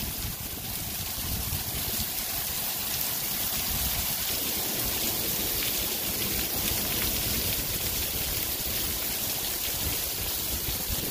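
Heavy rain pouring down steadily, with runoff streaming and dripping off the edge of a roof overhang.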